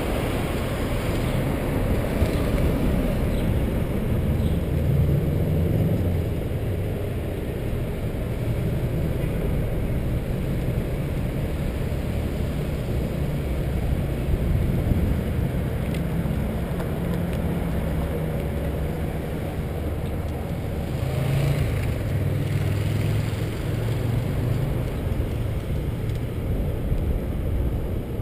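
Steady rushing noise of riding a bicycle: wind buffeting the microphone, with tyre and road noise underneath.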